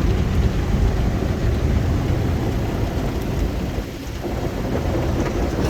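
Automatic car wash spraying the rainbow-coloured foam stage over the car, heard from inside the cabin as a steady rumbling rush of spray and machinery, with a brief dip about four seconds in.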